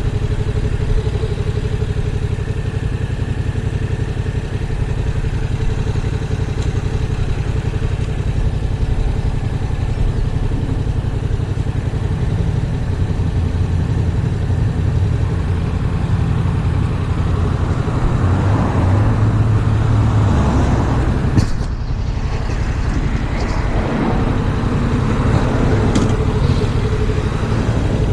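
A Yamaha MT-07's parallel-twin engine running on the move, under heavy wind buffeting on the action-camera microphone. The rumble swells for a stretch in the middle, then breaks off briefly about two-thirds of the way through.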